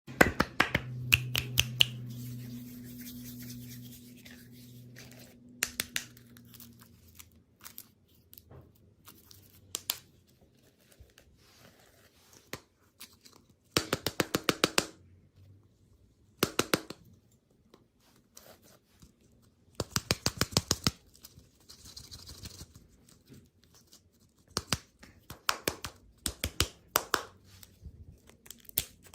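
Packaging being handled: quick runs of sharp clicks and crinkling that come in several separate bursts, with a low hum fading out over the first few seconds.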